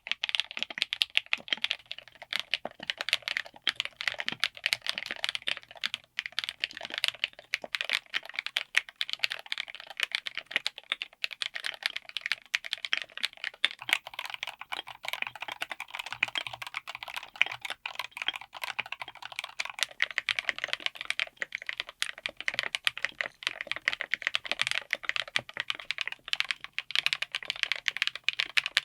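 Typing on a full mechanical keyboard fitted with linear switches: a fast, continuous stream of key strikes and bottom-outs. The tone of the keystrokes shifts about fourteen seconds in.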